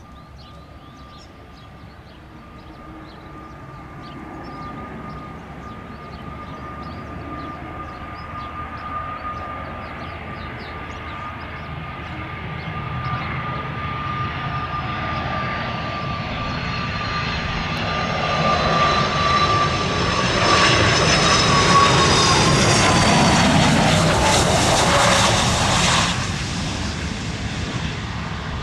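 Gulfstream G-IV jet on its landing approach, its Rolls-Royce Tay turbofans whining and growing steadily louder as it comes in. The whine slides down in pitch as the jet passes. The sound is loudest for several seconds near the end, then drops off suddenly.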